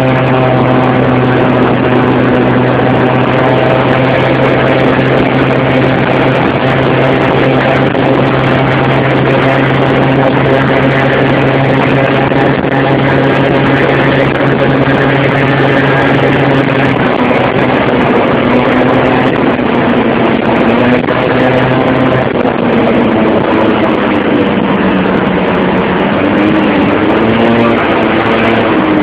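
Motorcycle engine running at a steady speed, its note held level for most of the stretch, then shifting up and down near the end as the speed changes, over a constant rush of road and wind noise.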